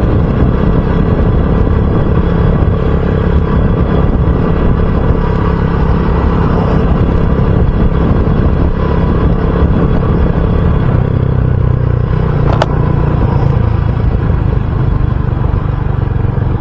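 RUSI Classic 250 motorcycle engine running steadily while riding, its note dropping a little about eleven seconds in, with one sharp click shortly after. The rider has just felt vibration and grinding from the bike and says something is off.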